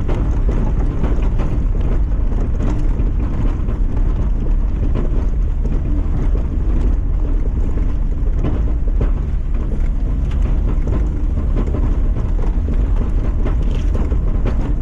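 A lifted Mazda MX-5 driving steadily on a rough track: a continuous low engine and road rumble, with wind noise on the microphone and scattered knocks and rattles.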